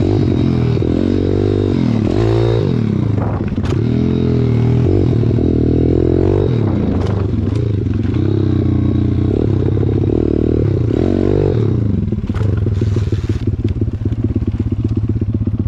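Pit bike's single-cylinder four-stroke engine running under throttle as it is ridden, its pitch rising and falling again and again, with a few sharp clatters.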